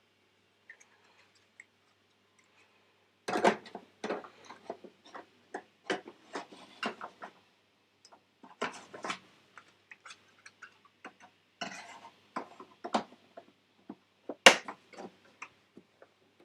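Hands working on parts of a Mac Pro tower: a run of irregular clicks, knocks and light metallic clatter starting about three seconds in, with one sharper knock near the end.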